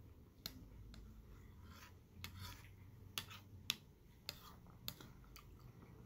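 Close-up chewing of yogurt with trail mix: faint crunches and mouth clicks, about one or two a second, spaced unevenly.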